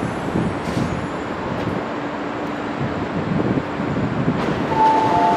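Train running along the track, a steady rumbling noise. Near the end a two-note tone starts and holds for about a second.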